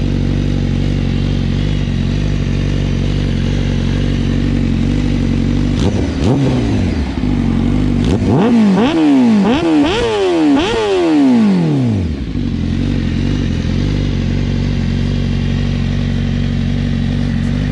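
2021 Honda CBR1000RR-R Fireblade SP's inline-four through a Leo Vince slip-on exhaust, idling steadily, then revved in a quick series of throttle blips about six to twelve seconds in, each one rising and falling in pitch, before it settles back to idle.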